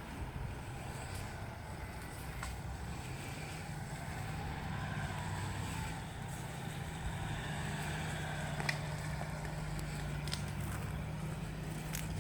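An off-road SUV's engine running steadily at low revs while the vehicle crawls over rough ground. The note strengthens slightly about four seconds in, and a few short sharp clicks are heard over it.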